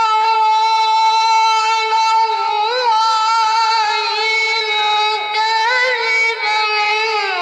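A child reciting the Quran in melodic tilawah style, holding one long high note with small vocal ornaments, then sliding down in pitch near the end.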